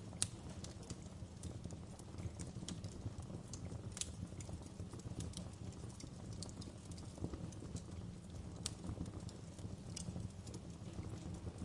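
Wood fire crackling in a fireplace: irregular sharp pops and snaps over a low, steady rumble of the flames, with one louder pop just after the start.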